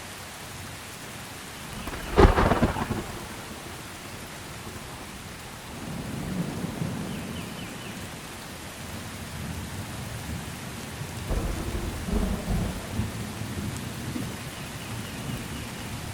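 Steady rain with thunder: a sharp thunderclap about two seconds in, the loudest sound, then low rolling rumbles from about six seconds, and a second clap with rumbling a little after eleven seconds.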